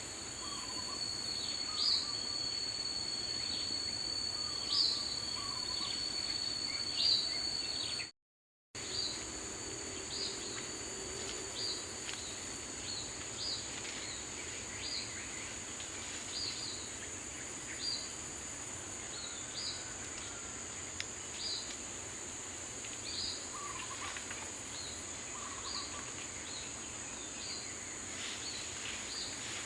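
Daytime forest ambience: a steady high drone of insects under repeated short bird chirps, about one a second, with a few lower calls. A thin high whistle is held through the first eight seconds. The sound cuts out completely for about half a second a little after eight seconds in.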